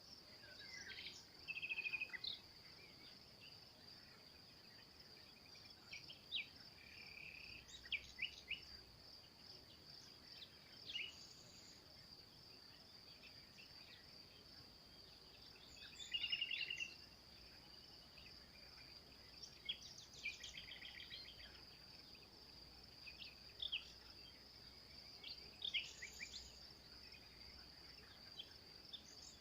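A steady high insect trill runs throughout, like a continuous cricket chorus, while small birds give short chirps and brief trills every few seconds.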